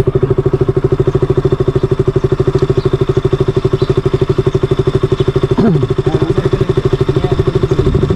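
Motorcycle engine running steadily with a rapid, even exhaust pulse that holds the same pace throughout.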